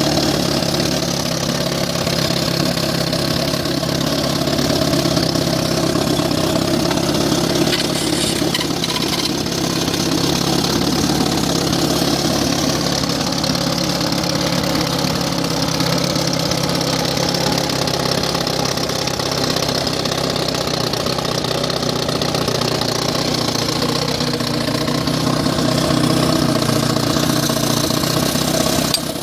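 1960 Elgin 18 hp two-stroke outboard motor idling steadily after being repaired, with its points set, magneto cleaned and throttle linkage sorted.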